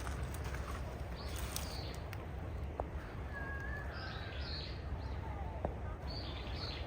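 Japanese bush warbler giving short, high, unusual call notes in small groups, over a steady low rumble.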